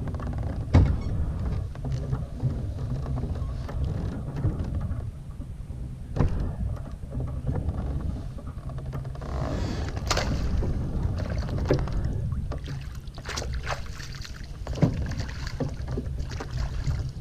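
Kayak on the water: a steady low rumble with scattered knocks and splashes from the hull and from handling gear aboard.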